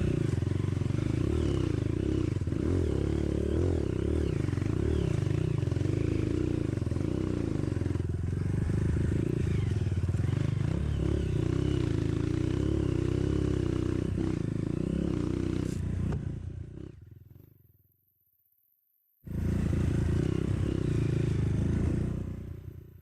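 Single-cylinder four-stroke trail motorcycle engine running under way, its pitch rising and falling as the throttle is worked, with some clatter over rough ground. The sound fades out about three-quarters of the way through, drops to silence for about a second, then cuts back in suddenly and fades again near the end.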